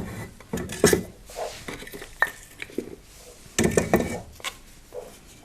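Split firewood logs being stacked onto the grate in a soapstone firebox lined with cordierite plates: irregular wooden knocks and clatters, bunched about a second in and again about three and a half seconds in.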